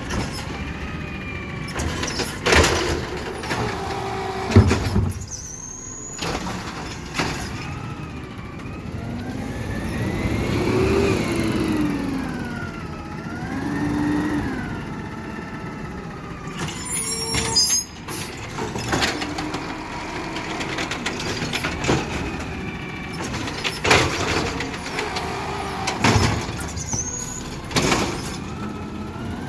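Garbage truck at work: a mechanical whine rising and falling in pitch, broken by several sharp knocks and bangs.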